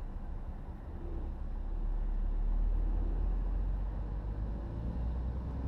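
Car interior road noise at motorway speed: a steady low engine and tyre rumble that swells for a second or two midway, as from a passing lorry.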